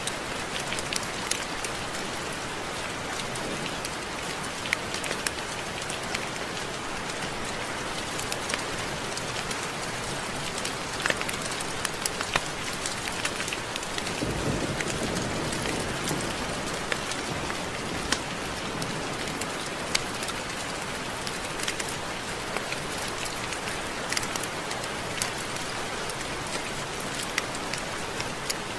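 Steady rain with many separate drops ticking sharply on a surface. About halfway through, a low rumble swells for a few seconds and fades.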